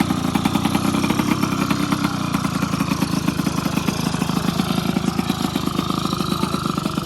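Two-stroke racing motorcycle engine idling steadily, with a fast, even pulse.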